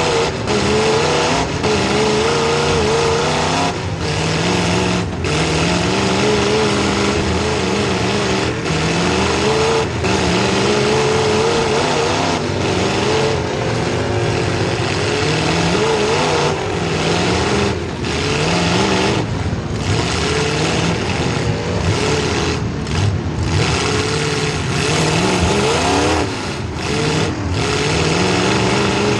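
Demolition derby car's small-block Chevy V8 running hard, its revs rising and falling repeatedly, with several short dips where the sound briefly drops away.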